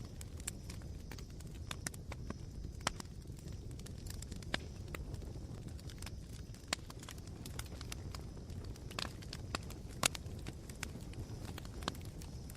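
Campfire crackling: irregular sharp pops and snaps from the burning wood and embers, the loudest about ten seconds in, over a steady low rush of the fire.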